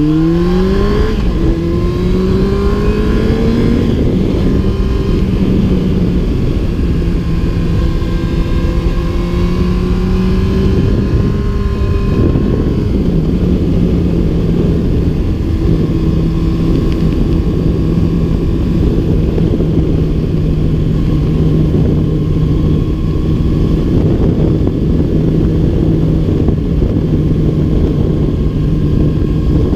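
2001 Yamaha R1's inline-four engine accelerating hard, shifting up about a second in, pulling up more gently, shifting up again around twelve seconds in, then holding a steady cruise.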